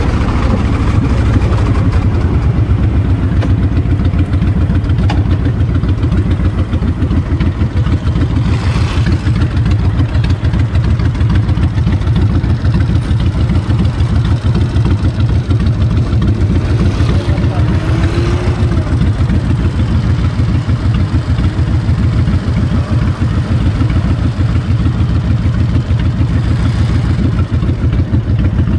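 Honda VTX 1300's V-twin engine running under way, with a steady low engine note from the exhaust. Wind noise on the microphone rides over it, swelling briefly a few times.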